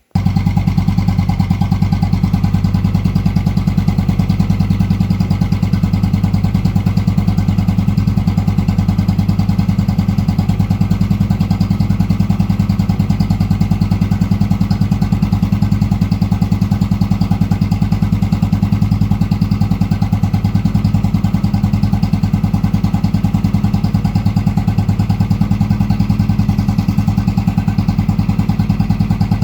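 Royal Enfield Classic 350's single-cylinder engine running steadily at idle through a K Indori aftermarket silencer, a rapid, even exhaust thump. It cuts in abruptly at the start.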